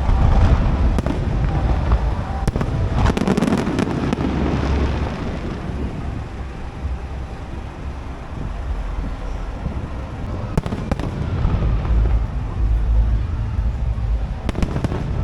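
Aerial fireworks exploding in a display: deep, rolling booms with clusters of sharp crackling about three seconds in, around eleven seconds, and again near the end.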